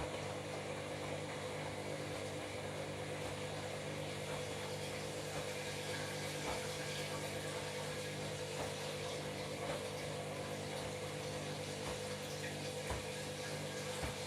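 Washing machine running with water moving through it: a steady hum over a water sound.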